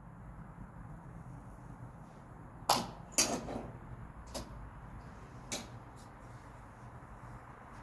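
Golf club striking balls: a few short, sharp cracks, the two loudest half a second apart about three seconds in, then two fainter ones over the next two and a half seconds.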